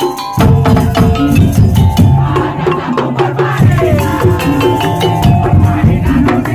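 Madurese tong-tong (ul daul) ensemble playing loud: a dense, fast rhythm of bamboo and wooden slit drums and drums, with sustained melodic tones over it.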